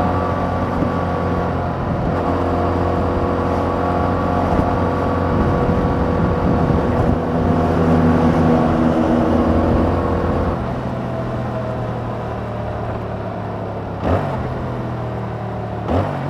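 Yamaha MT-07 parallel-twin engine running through its stock exhaust while being ridden. For the first ten seconds it pulls steadily under throttle. It then drops to a quieter, lower drone as the throttle eases off, with two brief sharp revs near the end.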